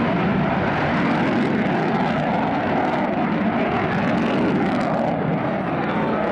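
Rolls-Royce Merlin V-12 engine of a P-51 Mustang running steadily as the plane flies its aerobatic display.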